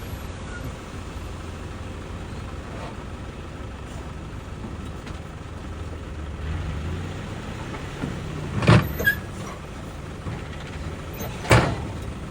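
A motor vehicle running with a steady low rumble, with a few sharp clunks or knocks about nine seconds in and again near the end.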